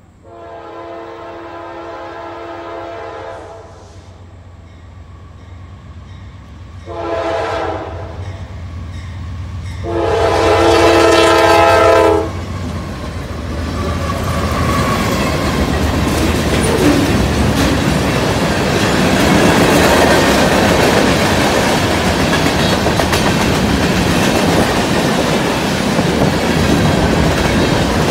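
Norfolk Southern freight locomotive's air horn sounding for a grade crossing: a long blast, a short one, then a long, loudest one. The train then passes close by, with the diesel locomotives running and the clickety-clack of freight-car wheels over the rail joints.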